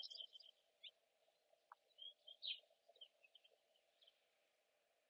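Faint birdsong: scattered short chirps and quick trills from small birds, over a steady low hum.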